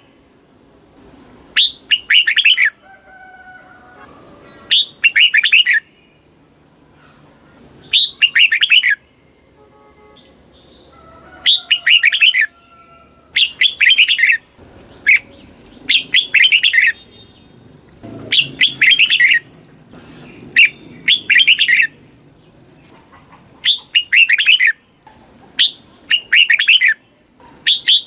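Red-whiskered bulbul singing: about a dozen short, rapid warbling phrases, each about a second long, repeated every one to three seconds. Faint whistles from other birds come in the gaps.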